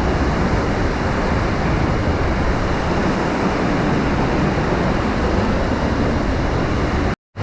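Waterfall: a steady, loud rush of falling water, which cuts out completely for a moment near the end.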